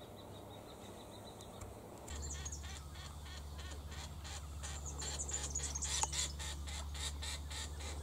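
A bird calling in a rapid run of short, repeated high notes, about four a second, starting about two seconds in, over a steady low hum.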